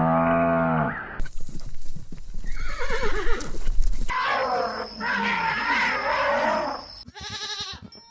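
Several separate livestock calls one after another: one ends about a second in, a falling call follows, then a longer call, and a short stuttering call near the end.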